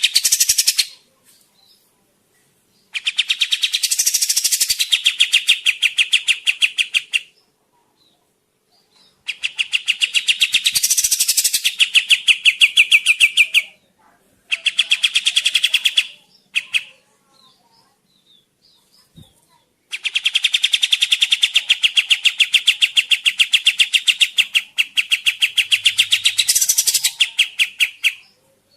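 Kapas tembak bird song used as a lure call: long runs of rapid, evenly repeated chattering notes, about ten a second. The song stops and starts several times, with the longest run near the end.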